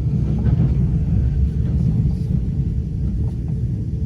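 Low, steady rumble of an Amtrak passenger train running on the rails, with faint light clicks over it.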